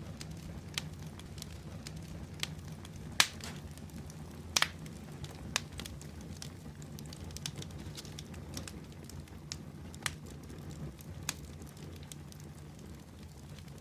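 Wood fire in a fireplace crackling, with irregular sharp pops over a low steady rumble of flame; the loudest pops come about three and four and a half seconds in.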